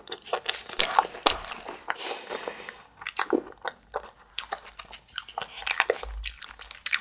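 Close-miked bites and chewing of a fish-shaped wafer ice cream sandwich (spicy Samanco), the wafer shell crunching in a run of sharp crackles.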